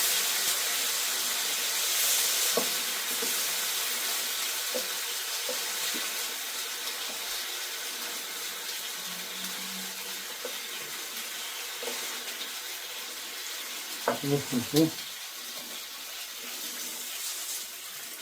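Breaded chicken strips frying in hot oil, sizzling steadily and slowly growing quieter.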